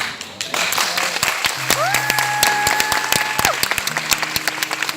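Audience applauding, with quick claps throughout and one long, high held whoop in the middle that rises at its start and falls at its end. Low steady notes of a backing track come in underneath after about a second and a half.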